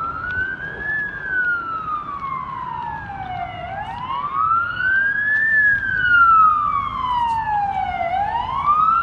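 Emergency vehicle siren in a slow wail: the pitch climbs over about a second, then falls away over two to three seconds, and the cycle repeats about twice, starting to rise again near the end.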